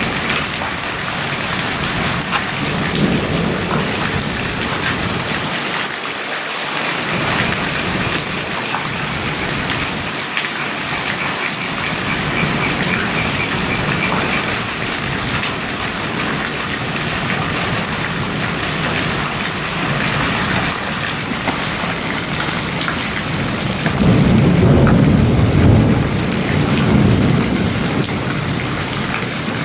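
Steady rain falling, with thunder rumbling low in the background; the thunder swells loudest for a few seconds near the end.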